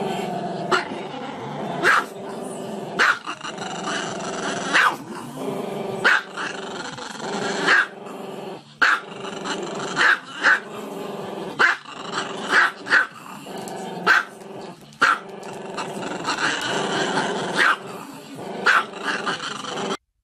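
A dog growling continuously, broken by short, sharp barks roughly once a second; it cuts off suddenly at the end.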